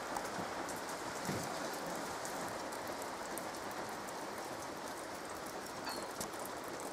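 Rain falling hard and steady, with many fine ticks of single drops landing close by.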